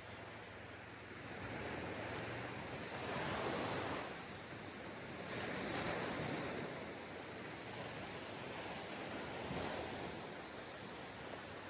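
Sea waves breaking and washing onto a sandy beach, the surf swelling and easing in slow surges every few seconds.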